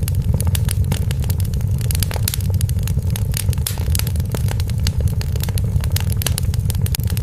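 Wood fire in a fireplace crackling and popping, with many sharp irregular snaps every second over a steady low rumble of the flames.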